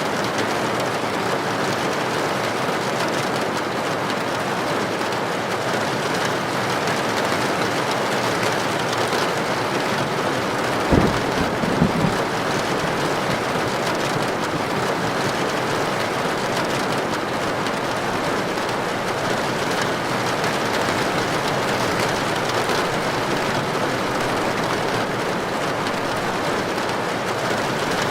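Heavy rain falling steadily on a tin roof, an even hiss of drops on metal. About eleven seconds in, a brief low thump comes, followed by a couple of smaller knocks.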